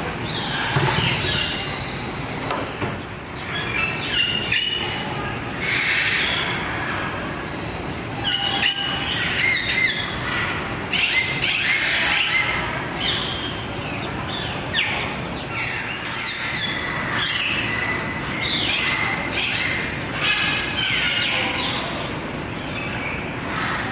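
Many birds chirping and calling at once, short high calls tumbling over one another without pause, over a steady background din.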